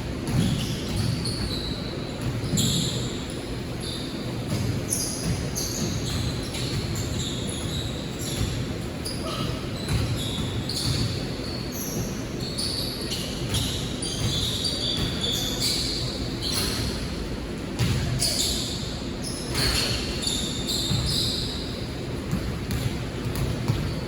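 Basketball game play in a gym: a basketball bouncing on the court and players' voices, with frequent short high-pitched squeaks of sneakers on the floor.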